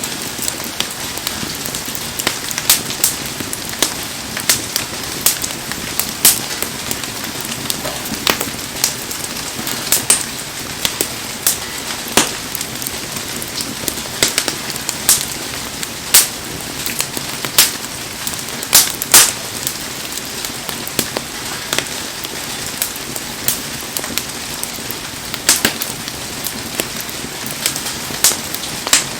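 Wood fire crackling with irregular sharp pops under a steady hiss of heavy rain.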